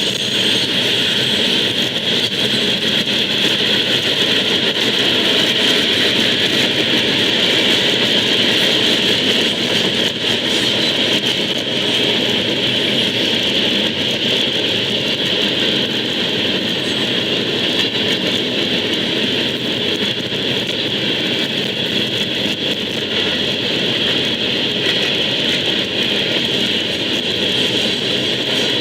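Diesel locomotives running, a loud, steady engine noise without a break.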